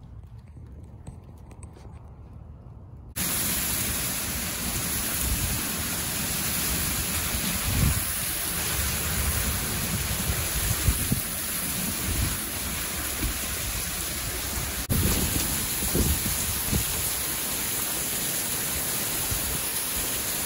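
Heavy summer rain pouring down in a steady loud hiss, starting abruptly about three seconds in, with occasional deeper low swells.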